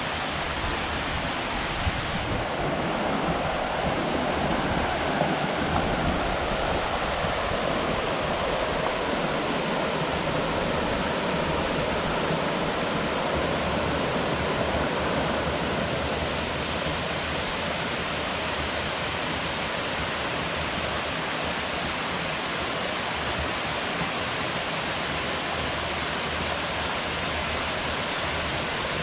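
Steady rush of water falling from a dam and the river running below it, an even unbroken roar.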